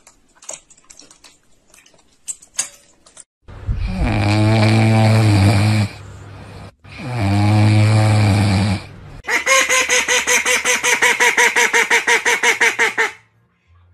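A sleeping puppy snoring: two long, loud snores of about two and a half seconds each. After them comes a fast run of pulsed calls, about eight a second for some four seconds, from a duck with its bill open.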